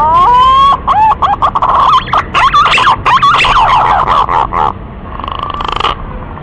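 Green pigeon singing: whistled notes that slide up in pitch, then a fast run of warbling, looping whistles, ending in a softer buzzy rattle about five seconds in.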